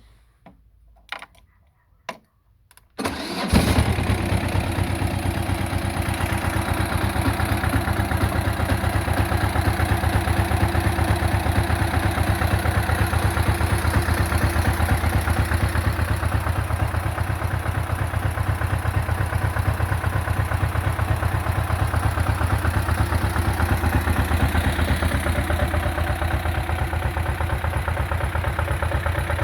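Barbieri Terratrack tractor engine starting about three seconds in after a few short knocks, then idling steadily with an even pulsing beat.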